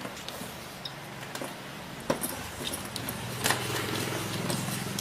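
Small scattered clicks and taps of hand work on a fuse box and its wiring, with screws and parts being handled, over a faint low steady hum.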